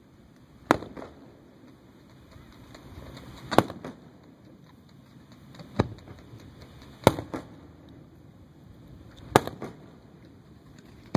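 Aerial fireworks shells bursting overhead: five sharp booms, irregularly spaced one to three seconds apart, each trailed by a brief softer report.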